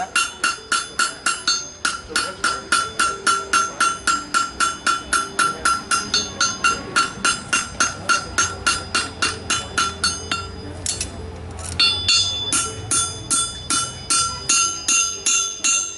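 Farrier's hammer striking a hot horseshoe on an anvil in a quick, steady rhythm of about three to four blows a second, each blow ringing. The blows pause for about a second near the middle and then resume.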